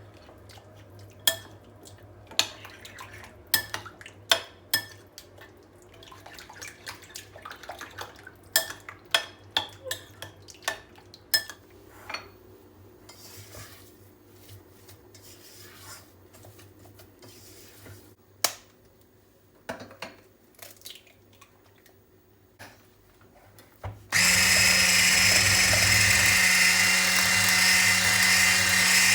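Kitchen handling noises: scattered clicks and knocks of utensils and dishes. About three-quarters of the way in, a small electric kitchen appliance motor switches on suddenly and runs loudly and steadily with a constant hum.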